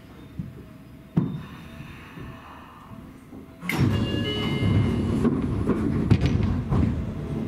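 Seibu Railway train noise: a sharp click about a second in, then a sudden loud rush of rail noise with high squealing tones from a little past halfway.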